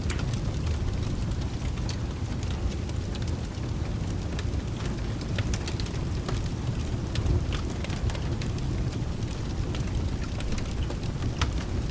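Wood fire crackling in a fireplace, with irregular sharp pops and snaps over a steady low rumble, mixed with rain.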